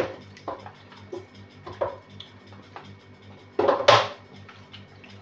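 Kitchen utensils and dishes knocking and clinking during food preparation, scattered single knocks with a louder clatter about four seconds in, over a faint steady low hum.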